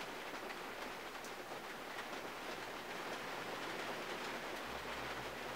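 Steady rain falling on a 1951 Mercury, heard from inside the closed cabin: an even patter with scattered drop ticks on the glass and body.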